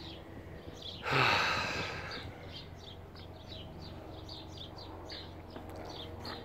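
Small birds chirping repeatedly in quick short notes, with a sudden loud rushing noise about a second in that dies away over about a second.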